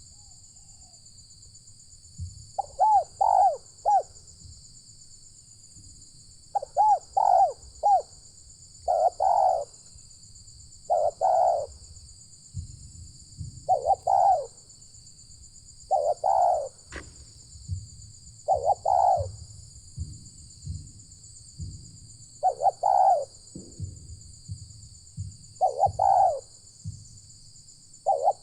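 Spotted dove (tekukur) cooing: short phrases of two or three coos, repeated every two to three seconds. A steady high-pitched buzz runs underneath.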